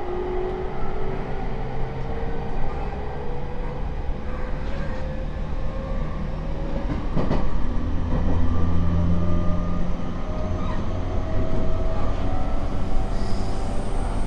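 E231-series commuter train heard from inside the carriage: the traction motors whine in several tones that climb slowly in pitch as the train gathers speed, over a steady rumble of wheels on rail, with a single clack about halfway through.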